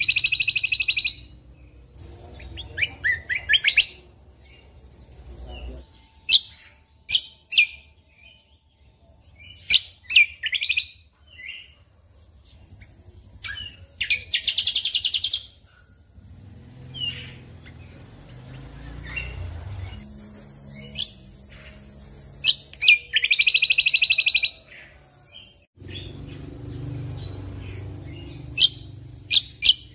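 Cucak kombo (kecial kombo) singing: bursts of sharp, high chirps and whistled notes, broken three times by a fast trill about a second long.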